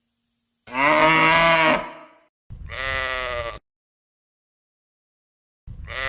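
Sheep bleating: three separate bleats about a second each, the first the loudest, with short silences between them.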